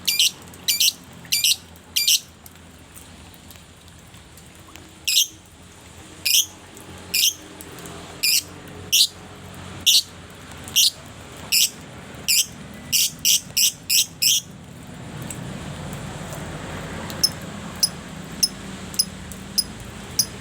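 A pet songbird calling in a long series of sharp, high chirps, repeated about one or two a second with a short pause early on, stopping about two-thirds of the way in. After that a steady background noise grows louder, with a few faint chirps.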